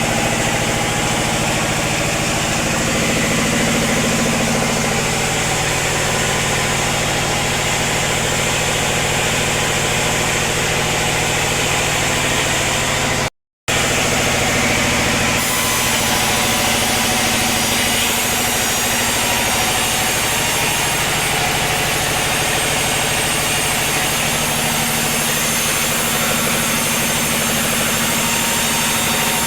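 Sawmill machinery running steadily with a continuous engine-like drone. The sound cuts out for a moment about thirteen seconds in, then carries on slightly changed.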